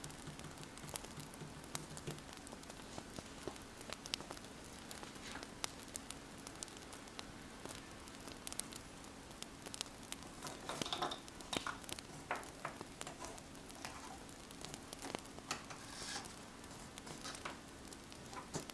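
Wood fire crackling, with many small sharp pops over a soft hiss, and a pen scratching on paper in short spells partway through and near the end.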